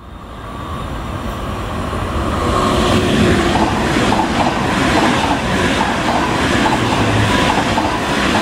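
An ICE 4 high-speed electric train passing close by. The rumble and rolling noise build over the first three seconds and then hold steady, with a regular clatter of the wheels about twice a second.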